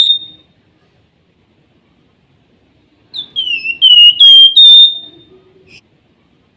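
Javan fulvetta (flamboyan, wergan jawa) singing its whistled 'nyiul' song. One phrase ends at the very start. About three seconds in, a new phrase begins: a quick run of short, falling whistled notes ending on a longer held note, with one faint note after it.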